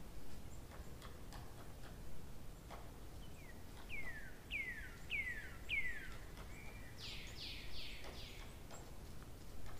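Birds calling: a run of five descending notes about half a second apart, then a quick burst of four sharp higher notes near the end, over a low steady background noise.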